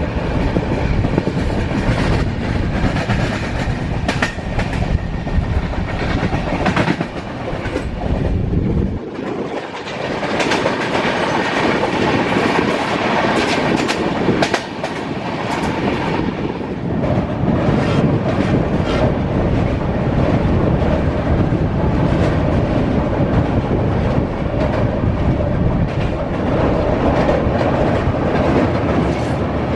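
Passenger train coaches running along the track, wheels clattering rhythmically over rail joints over a steady heavy rumble; the deep rumble briefly drops away about nine seconds in, then returns.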